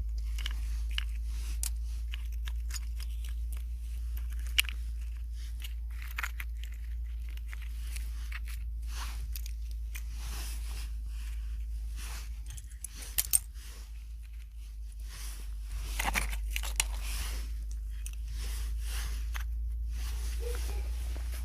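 Irregular crunching and rustling with scattered sharp clicks, over a steady low rumble.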